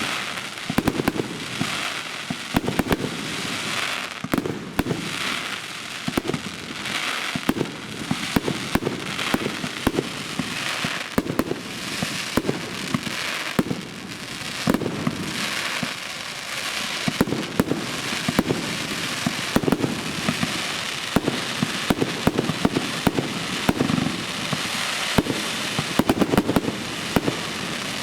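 Aerial firework shells bursting one after another, a deep boom every second or two, with sharp cracks and crackling in between.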